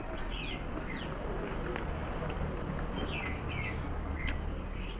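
Birds chirping in the background, short falling calls, once early and then in a quick cluster of four or five about three seconds in, over a steady low background noise. A single faint click of chewing comes partway through.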